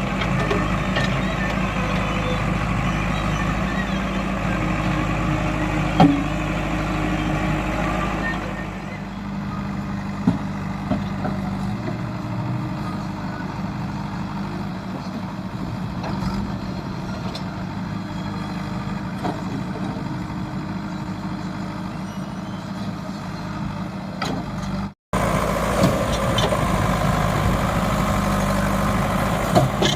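Heavy diesel machinery engines running steadily at work, a backhoe loader and a tractor. The sound becomes quieter and duller about a third of the way through. Near the end it cuts out for an instant, then comes back louder.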